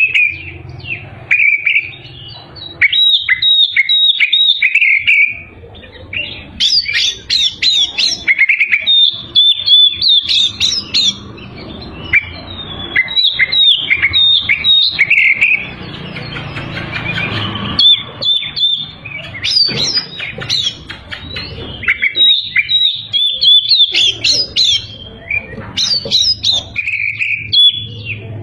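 Oriental magpie-robin (kacer) in full song: a loud, varied run of quick whistles, trills and chattering notes, delivered in phrases with short pauses between them.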